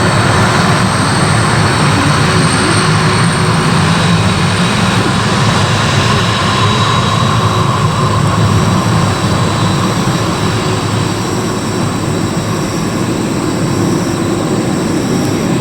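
Airliner engines running loud and steady, a dense roar with a high whine on top, easing slightly about two-thirds of the way through.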